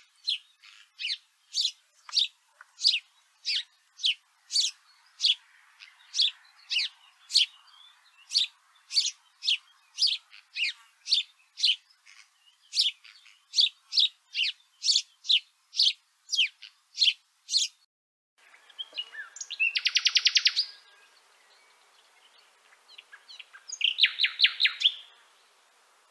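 Songbird recordings: a long series of short, high, sharp notes at about two a second, then, after an abrupt switch to another recording, two fast high trills about four seconds apart.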